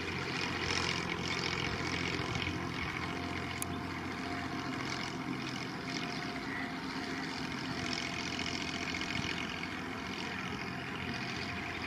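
Steady mechanical running noise of a train, with a low, even engine hum underneath.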